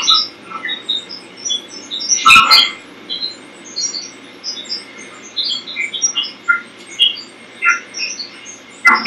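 A rapid scatter of short, bubble-like electronic blips at jumping pitches, several a second, from a TV set's speaker, with a loud pop about two seconds in and another at the very end. It is an unexplained noise the owner receives through her TV's satellite feed.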